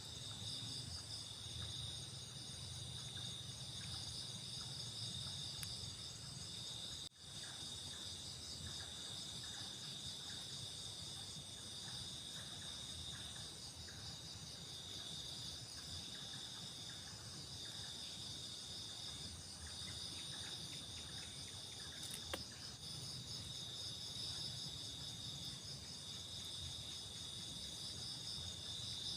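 Night insects, crickets among them, chirring steadily in several high-pitched layers, over a low steady rumble. The sound drops out briefly about seven seconds in.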